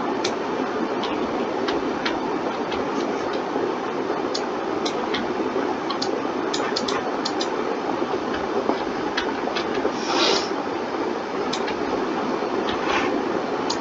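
Irregular computer mouse and keyboard clicks over a steady hiss of computer fan and room noise, with a brief rustling run of clicks about ten seconds in.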